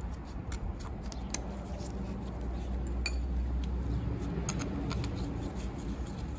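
Scattered light metallic clinks and taps of tools and bolts as a water pump is set in place on a diesel engine, over a low steady rumble.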